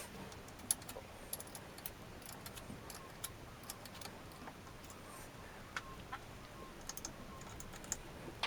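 Scattered light clicks and taps, irregular and a second or so apart: small metal parts and hand tools being handled and fitted at the bench.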